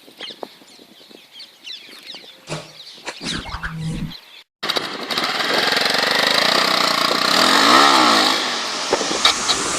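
Motorcycle engine running, first faint and then, after a sudden cut about four and a half seconds in, much louder with road noise. The revs rise and fall once near the end.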